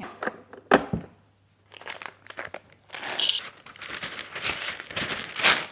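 A couple of sharp knocks, then a few seconds of paper crinkling and rustling as it is handled, with some tearing.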